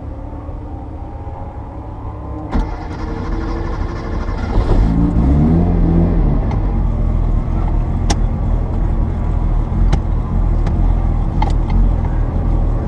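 Porsche 930 Turbo's air-cooled turbocharged 3.3-litre flat-six running at low revs, heard from inside the car. A sharp click comes about two and a half seconds in, and about four and a half seconds in the revs rise as the car pulls away. The engine then runs steadily and louder.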